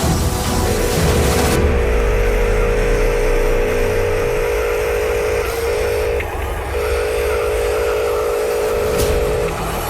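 Whine of a radio-controlled construction machine's small electric motor running steadily, stopping briefly and starting again a few times.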